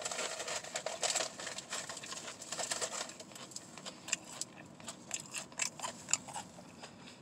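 A person chewing a mouthful of sub sandwich close to the microphone: irregular wet mouth clicks and smacks, fewer and softer in the second half.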